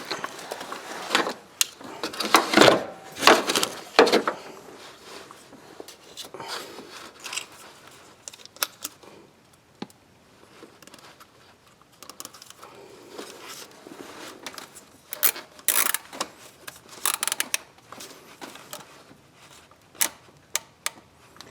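Irregular clicks, clinks and short scrapes of hand tools and small parts during a spark plug and ignition coil change. The clatter is busiest in the first few seconds and again about two-thirds of the way through.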